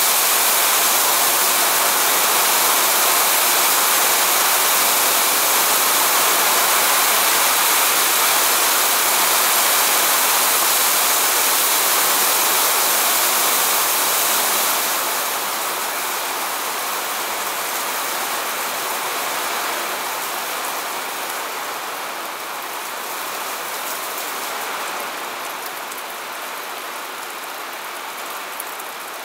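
Rain falling steadily on grass and trees, an even hiss that turns quieter and duller about halfway through.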